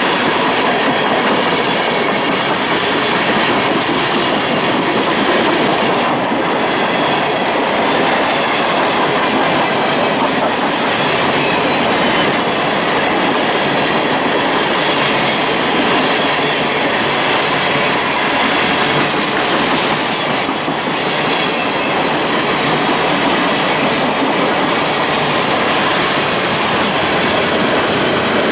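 Train cars rolling past close by on the rails: a loud, steady rush of wheel and rail noise that holds at one level throughout.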